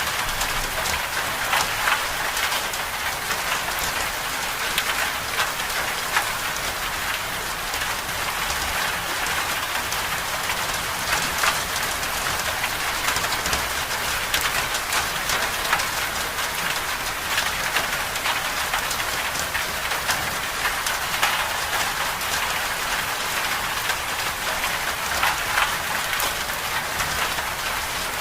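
Steady winter-storm ambience: a dense, even hiss of precipitation striking a surface, with many fine scattered taps.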